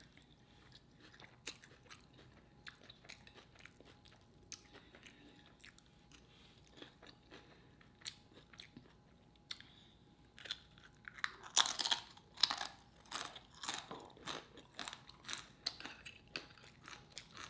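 Close-miked chewing of soft food, with small wet mouth clicks. About two-thirds of the way in, loud crisp crunching begins as homemade tortilla chips are bitten and chewed.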